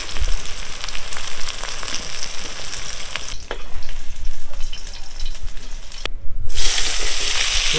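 Food sizzling in hot mustard oil in a wok, with a few sharp knocks of the stirring spatula. The sizzle drops out briefly about six seconds in, then comes back louder.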